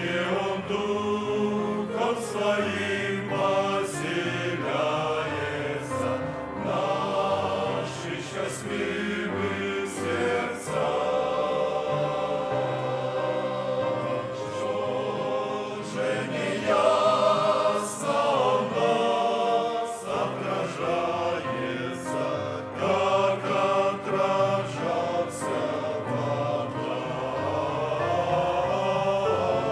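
Men's choir singing a Christian hymn in Russian, several voices in chords with held notes.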